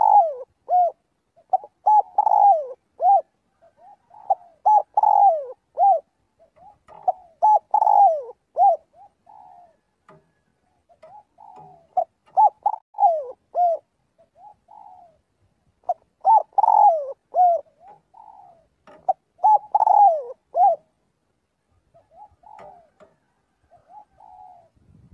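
Spotted dove cooing: repeated phrases of cooed notes, several falling in pitch, every few seconds, with softer, shorter coos in the gaps between.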